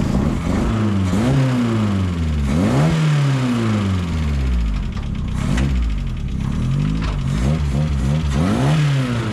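1300cc stockcar's four-cylinder engine revving, its pitch rising and falling again and again.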